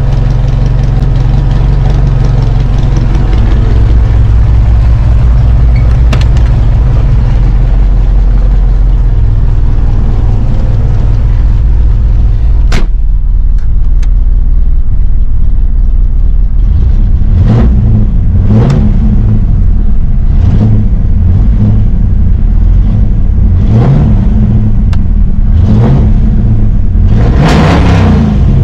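Ford 5.0 V8 in a Fox-body Mustang running at a steady, loud idle. In the second half it is revved in a series of short blips, about eight, each rising and falling back to idle, with the last and biggest near the end.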